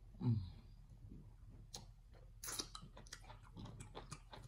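Close-up mouth sounds of a person eating soft fufu and spinach soup: wet chewing and lip smacks in scattered short clicks, with a louder smack about two and a half seconds in. A brief falling voiced hum comes right at the start.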